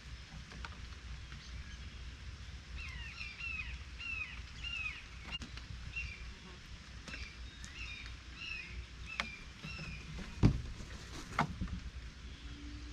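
A bird chirping a quick run of short, curved notes for several seconds over a steady low outdoor rumble. Near the end come two sharp knocks, the loudest sounds.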